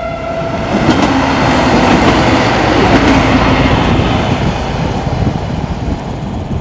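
Siemens Desiro diesel multiple unit passing close by, its engine and running gear giving a dense rumble and a steady drone for the first few seconds, easing slightly as it draws away. The tail of a horn blast ends just at the start.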